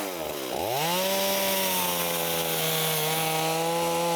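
Chainsaw cutting firewood: the motor dips and spins back up about half a second in, then runs at a steady pitch. Its chain is dull and barely bites into the wood.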